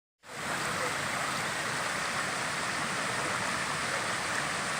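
Rain-swollen creek rushing steadily; it fades in quickly near the start, then holds an even level.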